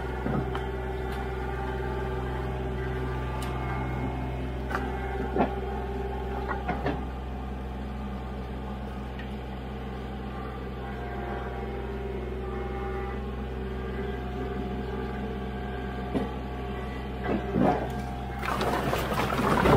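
An engine running steadily, with scattered knocks of firewood pieces landing while a tote is loaded, and louder clattering near the end.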